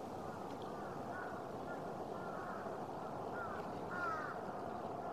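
Birds giving short, repeated calls, several in quick succession with the clearest cluster about four seconds in, over a steady background rush.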